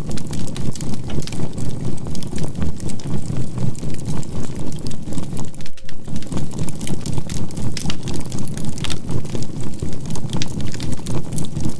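A crackling charcoal campfire over a steady low rumble, mixed with a faint steady 528 Hz tone and a binaural-beat hum whose loudness pulses about three times a second. There is a brief dropout about six seconds in.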